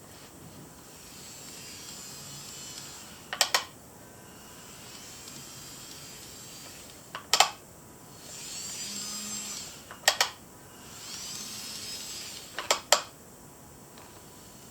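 KATO N gauge 923-3000 Doctor Yellow model train running on its track: a high, thin motor whine that swells and fades again and again as it passes, with sharp clicks, single or in quick pairs, about every three seconds.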